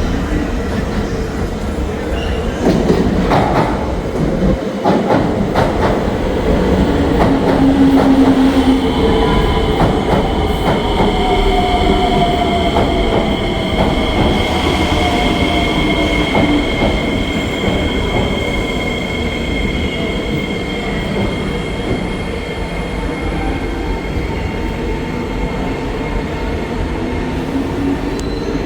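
An SMRT C151B metro train running, heard from on board: a continuous rumble of wheels on rail with the whine of the traction motors, gliding in pitch. Several clicks over rail joints in the first few seconds. From about nine seconds in, a steady high whine holds on.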